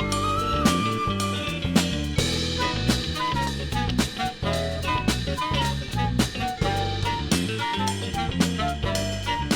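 Live band playing an instrumental passage without vocals: drum kit keeping a steady beat under a bass line, with a melody line of short notes moving up and down over it.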